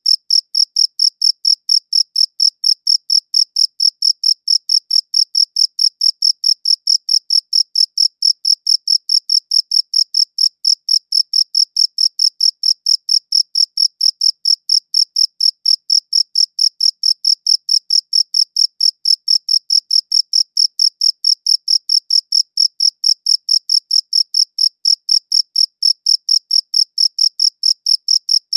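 Cricket chirping: a high-pitched chirp repeated at a fast, perfectly even rhythm without a break.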